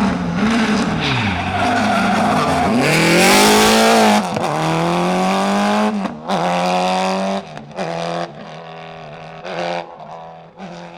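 Rally car engine revving hard and rising and falling several times, then pulling up through the gears in long climbing sweeps, with a loud burst of tyre noise about three seconds in. Near the end it fades into shorter, quieter bursts of throttle as it moves off.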